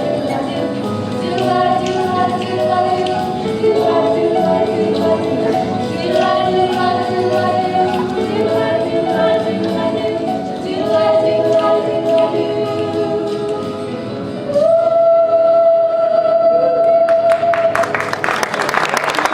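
Group of voices singing a stage-musical song number, ending on one long held note about fifteen seconds in. Audience applause breaks out just after the note ends, near the end.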